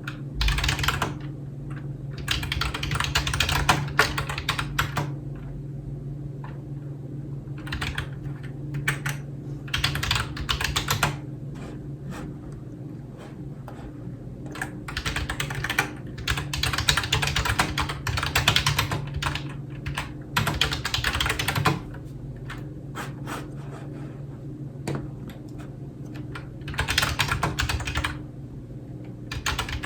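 Typing on a computer keyboard in quick runs of keystrokes, broken by short pauses, with a steady low hum underneath.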